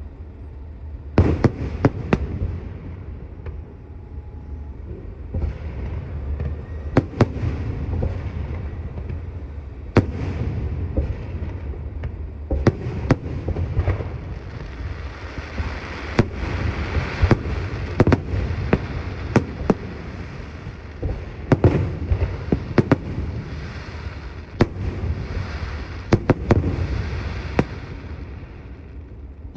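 Fireworks show: a rapid, irregular series of sharp bangs from bursting aerial shells, over constant crackling.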